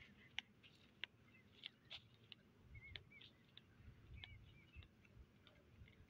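Faint, scattered short chirps and clicks of small birds, several a second, a few with a quick up-and-down pitch, over a faint low rumble.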